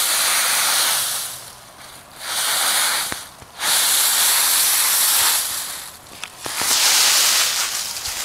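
Loud hissing noise in four bursts, each one to two seconds long, with short breaks between them.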